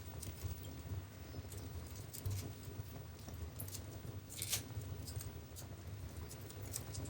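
Wood fire in a fireplace crackling: scattered sharp pops and snaps over a low, steady rumble of the flames, with one louder pop about four and a half seconds in.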